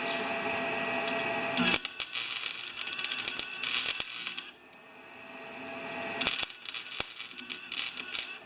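Flux-core wire welder arc crackling and sputtering in short bursts while tacking the thin sheet-metal shell of a mower muffler. It starts about two seconds in after a steady hum, dies down briefly near the middle, and crackles again near the end.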